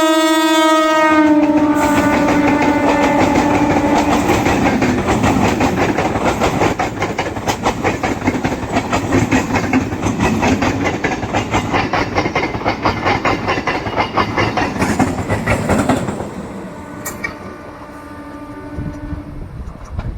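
Electric locomotive horn sounding and dropping in pitch about a second in as the train passes, then a fast freight train rushing by with rapid clickety-clack of wheels over the rail joints. The sound fades about 16 s in, and a fainter horn sounds near the end.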